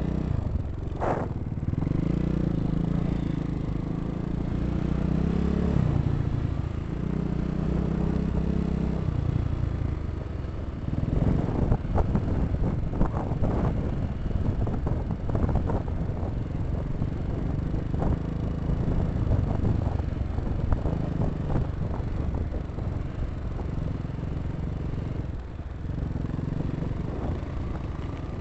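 Dirt bike engine running, its pitch rising and falling as it is revved through the first ten seconds. Then comes a stretch of irregular clattering and knocks over a steadier engine sound.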